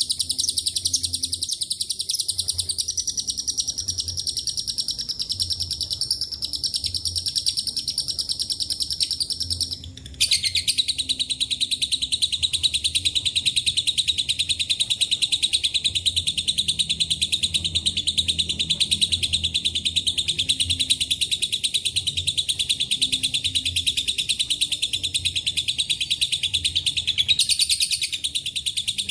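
Lovebird's 'ngekek': a long, very rapid, unbroken chattering trill. It stops for a moment about a third of the way in, then resumes a little lower in pitch and runs on.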